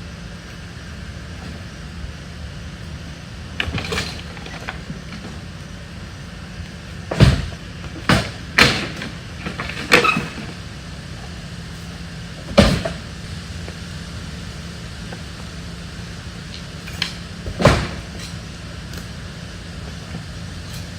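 Pieces of broken-up furniture thrown onto a truck, about six loud bangs and clatters at irregular intervals over a steady low hum.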